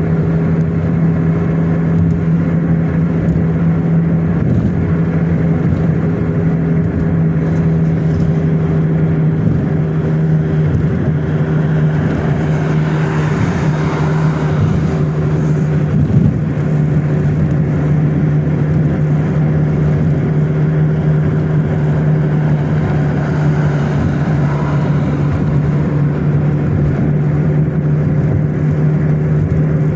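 Car driving at a steady pace: a constant low engine hum with road and tyre noise.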